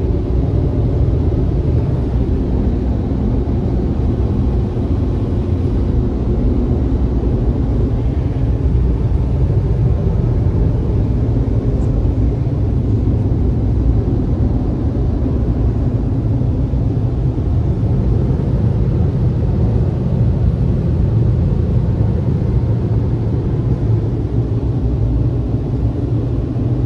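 Automatic car wash machinery running around the car, heard from inside the cabin as a loud, steady low rumble.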